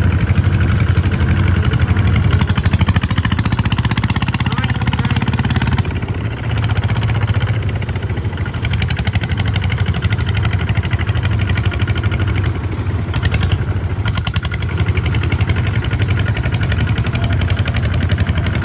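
Tractor engine running steadily with a rapid, even firing beat while being driven; the level dips briefly about six seconds in.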